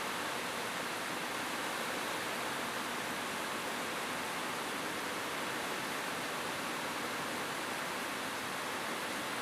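Rain falling steadily on a roof: an even, unbroken hiss of many drops with no single hits standing out.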